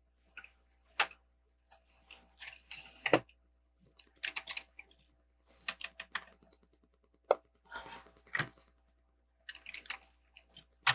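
Plastic Lego bricks being handled and pressed together: irregular clicking and rattling of small plastic pieces, with a few sharper snaps, as a part that resists seating is worked into place.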